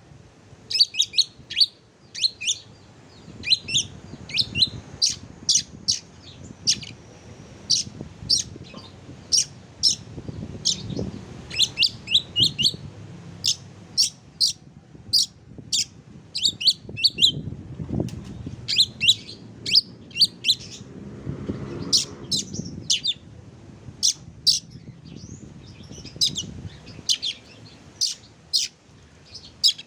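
Songbird chirping in quick runs of short, high, downward-sliding notes, played as song material to set kept oriental magpie-robins singing.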